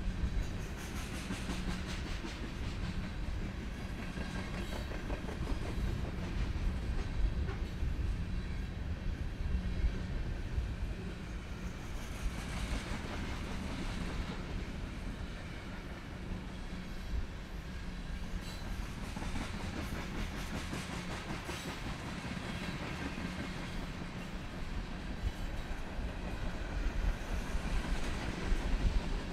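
Freight train rolling past at speed: a steady rumble with a constant drone and the rapid clatter of wheels over the rail.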